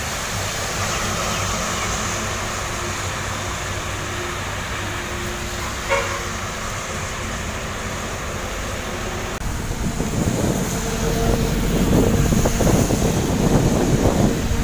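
Road traffic noise with vehicles passing, and a brief vehicle horn toot about six seconds in. Over the last few seconds wind buffets the microphone with a low rumble.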